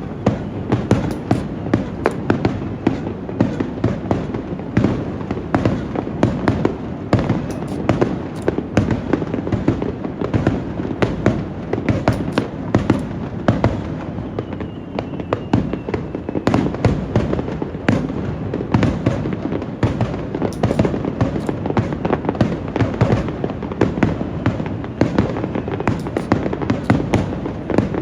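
Fireworks finale: a continuous barrage of aerial shell bursts, many sharp bangs a second over an unbroken low rumble.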